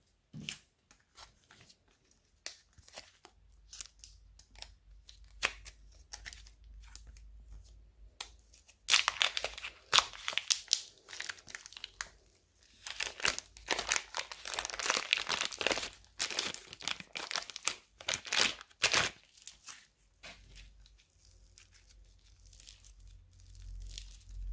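Plastic bags and slime being handled, crinkling and crackling. There are scattered crackles at first, a dense stretch of crinkling from about nine seconds in to about nineteen, then only occasional soft crackles.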